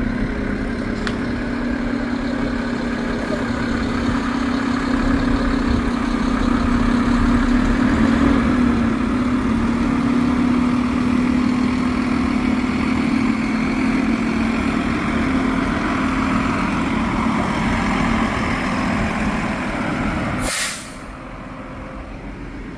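Recycling truck's diesel engine running steadily, a little louder in the middle. Near the end comes a short sharp hiss of air, and the engine sound drops away at once.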